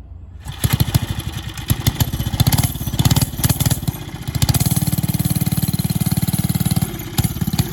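Small single-cylinder engine of a vintage Ruttman minibike catching on choke and running, its firing uneven at first, then steadier, with a brief dip near the end.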